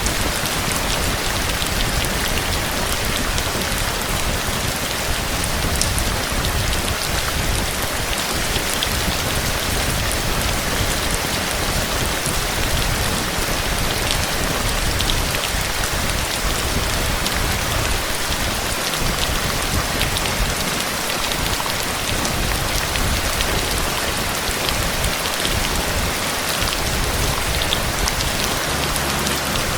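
Heavy, steady rain pouring down and pattering on surfaces, a dense even hiss with scattered drop ticks.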